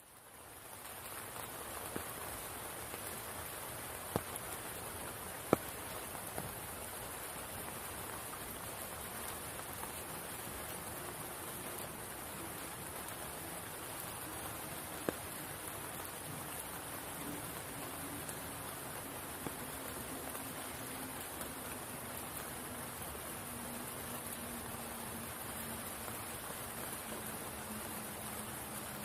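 Rain falling on a spring pool and the forest around it: a steady hiss, fading in at the start, with a few louder single drops plinking close by. A faint low hum slides slowly down in pitch through the second half.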